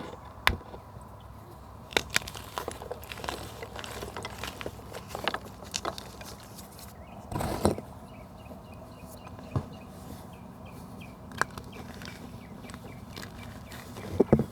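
Dry natural material being crushed, giving irregular sharp snaps and crackles, with one longer crunch about halfway through.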